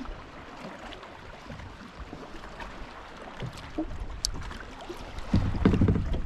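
Quiet water and wind sounds on a kayak, with a few faint small clicks. Near the end a louder low rumble of wind on the microphone comes in.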